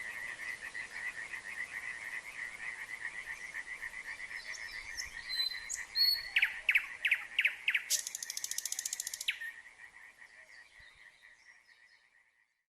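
Frogs calling in a steady pulsing chorus, with a common nightingale singing over them from about five seconds in: a few whistles, a run of loud descending notes, then a fast rattling trill. The whole then fades out near the end.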